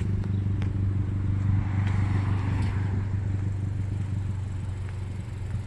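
Car engine idling with a steady low hum. A soft rush of noise swells and fades about two to three seconds in.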